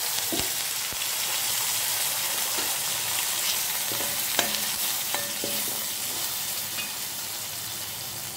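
Freshly ground mint chutney sizzling in hot tempering oil with mustard seeds, urad dal and curry leaves in a kadai, stirred with a steel slotted spatula that clinks against the pan a few times about halfway through. The sizzle eases slightly toward the end.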